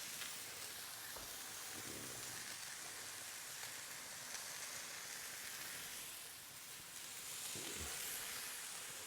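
Thin chicken breast frying in oil on a hot griddle pan: a steady sizzle.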